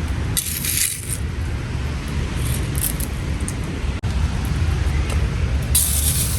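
Hailstorm: hail and rain pelting down, with scattered sharp hits over a steady low rumble, and the hiss swelling about half a second in and again near the end.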